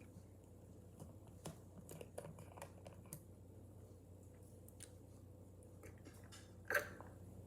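Faint chewing with scattered small mouth clicks, and one louder sharp click near the end.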